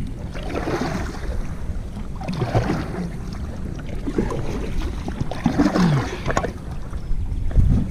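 Wind buffeting the microphone on a kayak on the river: a constant low rumble with three louder rushing swells, about half a second, two and a half seconds and five and a half seconds in.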